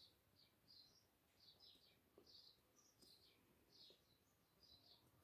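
Near silence, with faint high bird chirps repeating irregularly, a few a second.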